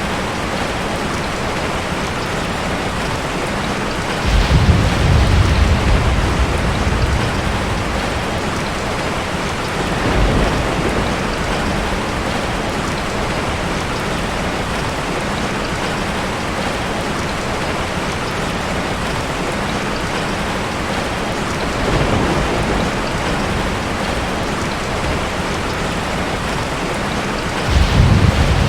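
Heavy rain falling steadily on a tin roof, with four low rolls of thunder. The first roll comes about four seconds in and the last near the end, and these two are the loudest.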